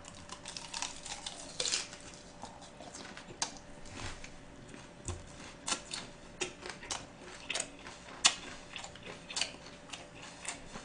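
A person chewing a mouthful of gwamegi (half-dried saury) wrapped with greens: faint, irregular clicks at an uneven pace.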